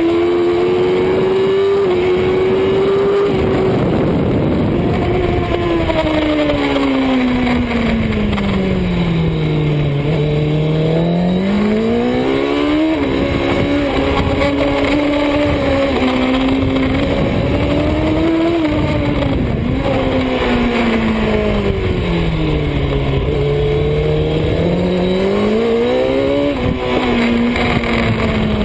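Superbike engine running hard on track. Its pitch falls slowly twice as the bike slows, then climbs sharply as it accelerates again, with small steps in pitch at the gear changes, over a constant rush of noise.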